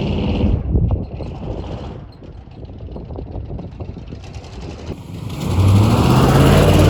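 1973 Chevy K20 pickup's engine running under way: it eases off about a second in, runs quieter and rougher for a few seconds, then pulls strongly again as the truck accelerates near the end.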